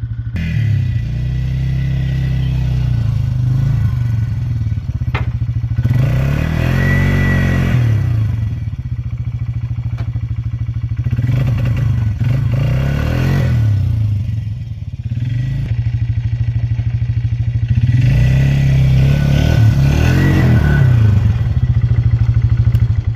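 2003 Polaris Magnum 330 ATV's single-cylinder four-stroke engine running, accelerating and easing off about three times.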